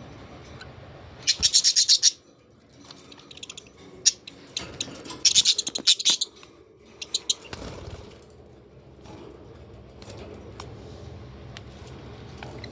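Australian parrots calling: two loud bursts of rapid, high-pitched chattering chirps, the first about a second in and the second about five seconds in, with scattered short chirps between them. A steady low hum sits underneath.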